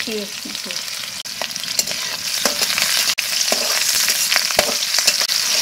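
Chopped garlic and green chillies sizzling in hot mustard oil in a wok, a dense hiss with many small pops and crackles that grows louder about three seconds in.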